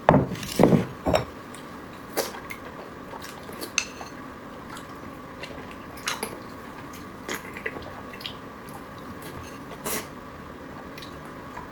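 Eating utensils clicking and knocking against a bowl and dishes, with a burst of louder knocks in the first second and scattered clicks after, along with wet eating sounds from a bowl of rice noodles.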